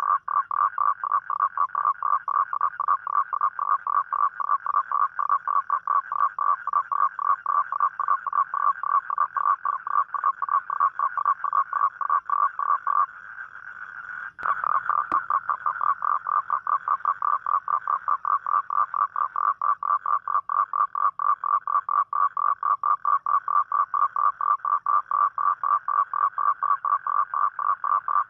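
A toad calling: a long, fast, even pulsed trill. It breaks off for about a second and a half near the middle, with a sharp click, then resumes at the same rate.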